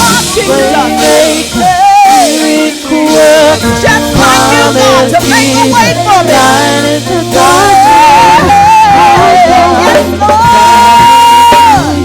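Live gospel praise band playing, with a singer's wavering vocal runs and long held notes over a steady low accompaniment.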